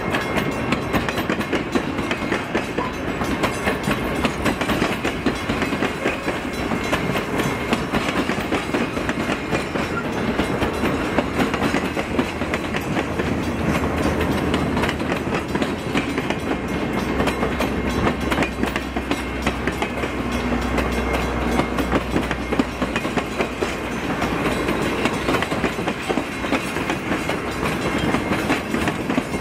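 Heber Valley Railroad passenger train running on the track: a steady rumble with the wheels clicking over the rails. A deeper low rumble swells through the middle and eases off again.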